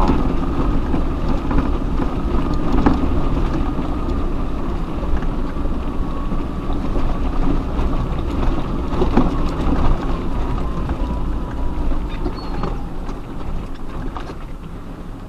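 Off-road 4x4 crawling over a rocky track: engine running low and steady under load, with tyres crunching over stones and scattered knocks from rocks under the car. A faint thin whine wavers in pitch through it.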